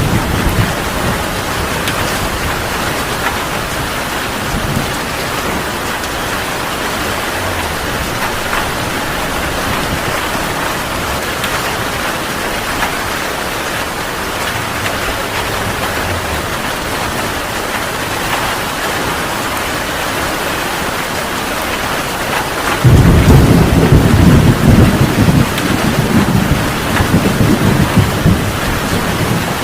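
Steady heavy rainfall hissing, with a thunderclap that breaks in suddenly about three-quarters of the way through and keeps rolling and rumbling to the end.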